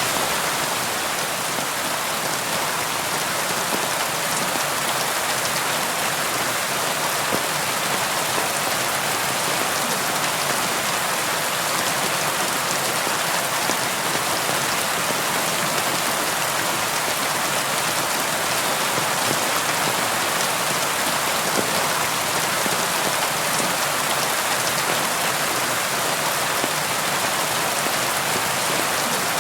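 Steady rainfall, a dense even hiss of drops striking a surface, with fine drop ticks and no thunder.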